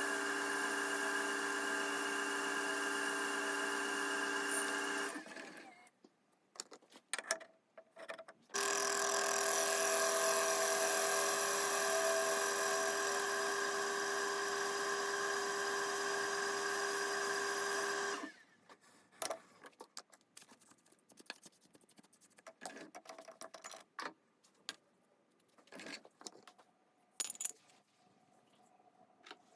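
TV-16 lathe running with a steady multi-tone hum. It switches off about five seconds in, starts again a few seconds later, runs for about ten seconds and stops. Light scattered clicks and knocks of metal parts being handled fill the gaps and the end.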